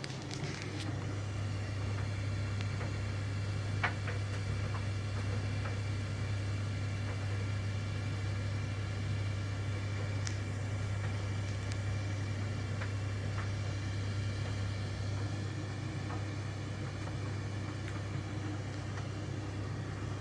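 Swan STC7020W condenser tumble dryer running with its drum turning: a steady low hum over an even whir, with a few faint clicks.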